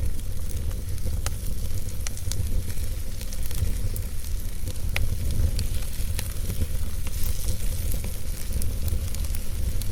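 Fire burning in a fireplace: scattered sharp crackles and pops over a steady low rumble and hiss.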